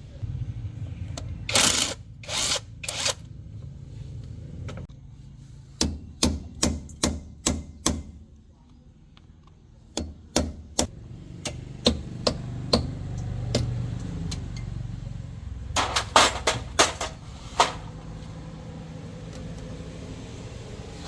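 Knocks and taps of hand tools on metal parts during heavy truck repair work, coming in short groups with the loudest cluster late on, over a low steady rumble.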